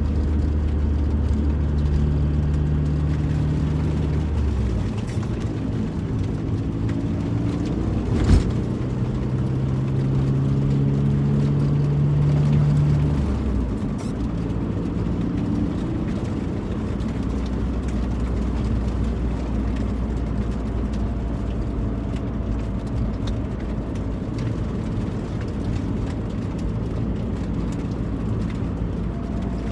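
Volkswagen car engine and road noise while driving, the engine note holding steady and then stepping to a new pitch as the gears change, most clearly about thirteen seconds in. A single sharp click about eight seconds in.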